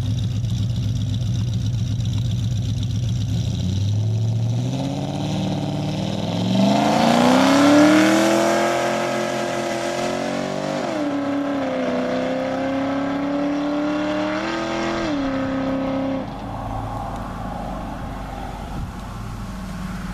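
Ford Crown Victoria's V8 idling, then accelerating hard at wide-open throttle: the engine note climbs, drops at two upshifts, climbs again after each, and fades as the car pulls away into the distance.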